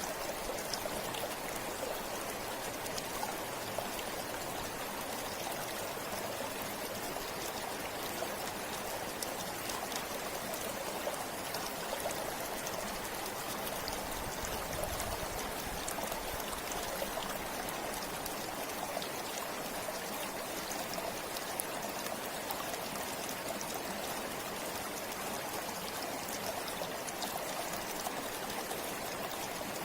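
Forest river flowing steadily over stones: a constant rushing and trickling of water with small splashes.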